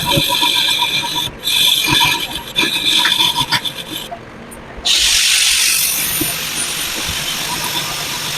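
Metal being worked in a workshop: a rasping, scraping sound with a ringing edge and scattered clicks, a brief pause, then a loud steady hiss that starts abruptly about five seconds in.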